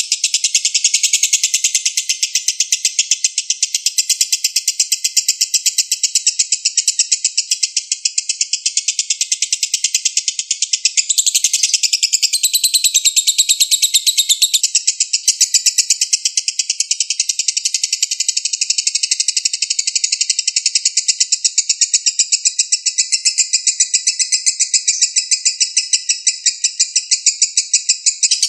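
Cage songbird singing a continuous, rapid, high-pitched chattering song that changes pattern for a few seconds about midway through.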